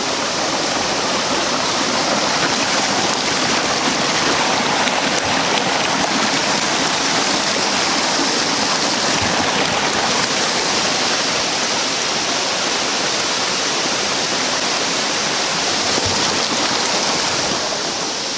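Steady, loud rush of a fast-flowing creek's water over rocks.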